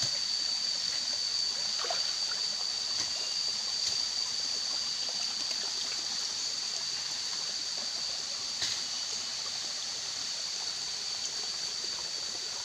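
Forest ambience: a steady, high-pitched insect drone, typical of cicadas, with a faint click or two.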